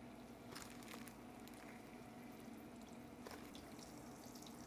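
Faint sizzle of fish chunks frying in oil in a small skillet, with a few soft pops.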